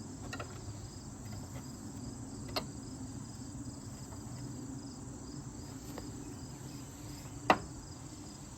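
Crickets chirping steadily, with a low background hum. A few sharp clicks or knocks stand out, the loudest about a second before the end.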